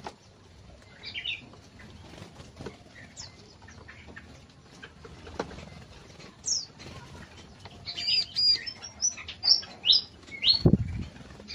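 Small aviary birds chirping in short, high calls. The calls are sparse at first and come thick and fast in the last few seconds, along with wing flutters and a low thump shortly before the end.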